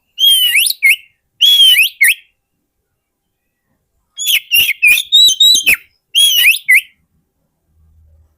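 Oriental magpie-robin singing a lure song: four loud phrases of whistled notes that slide up and down. The third phrase, about four seconds in, is a quick run of sharp clicking notes.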